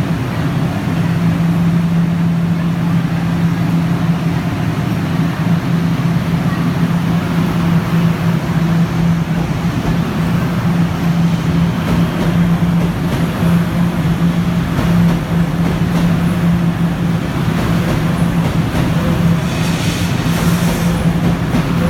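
Guangzhou Metro Line 1 train running, a steady rumble with a continuous low hum that holds level, and a brief rise in hiss near the end.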